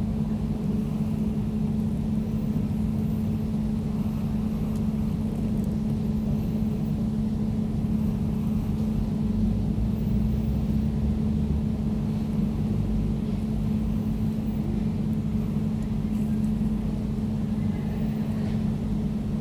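Air conditioner running steadily: an even low hum with a steady drone tone and a soft rumble beneath it, unchanging throughout.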